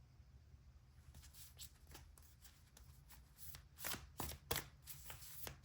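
A deck of oracle cards being shuffled by hand: a run of quick card flicks that gets louder and busier from about halfway.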